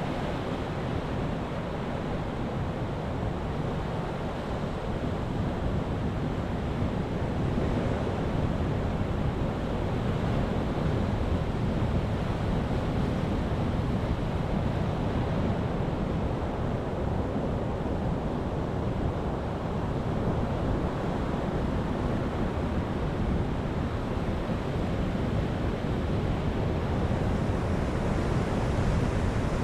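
Ocean waves surging on a beach: a steady wash of surf with no separate crashes standing out, growing slightly louder near the end.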